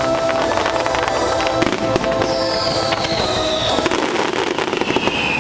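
Fireworks bursting and crackling, with dense rapid pops, over the show's music soundtrack. Two long falling whistles come in the second half.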